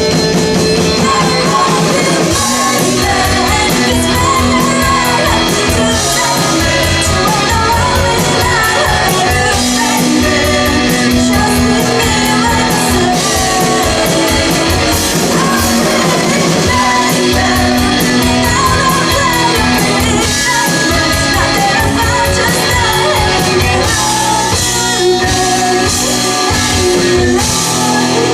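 Live rock band playing loud and steady: electric guitars, bass and a drum kit with cymbals keeping a regular beat.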